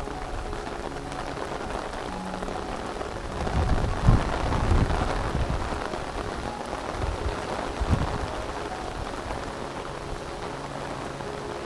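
Steady heavy rain falling and pattering on surfaces. Low rumbles swell up about four seconds in and again near eight seconds, the loudest moments.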